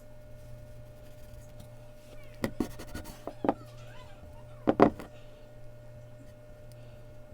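Sharp taps and knocks of drawing tools handled on a desk: a few about two and a half seconds in, another at three and a half, and the loudest pair near five seconds, over a steady low electrical hum.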